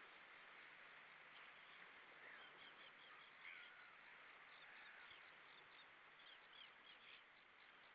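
Faint calls of small birds: scattered series of short, high chirps and a few longer down-slurred calls, over a steady hiss.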